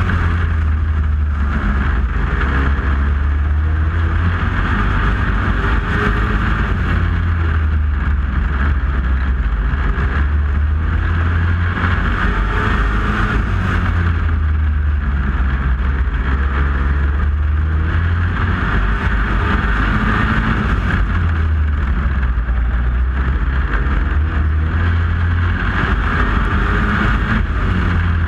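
Super Pro class pulling truck's engine running loud and steady, its sound swelling and easing in long waves.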